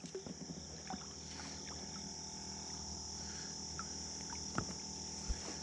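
Steady high-pitched chorus of insects trilling, with a few light clicks and knocks scattered through it and two sharper knocks near the end.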